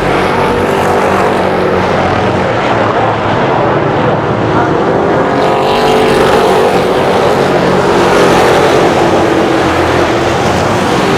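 Street stock race cars running laps on a short oval, a pack of engines at racing speed, with cars passing by and sweeping in pitch around the middle.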